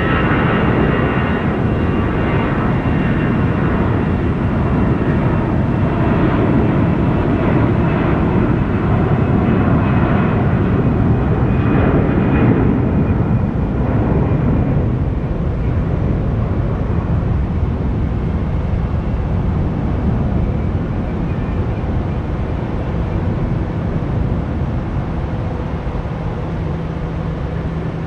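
Jet airliner engines passing close by with a loud roar and a high whine. The roar peaks about halfway through, then slowly fades as the plane moves away.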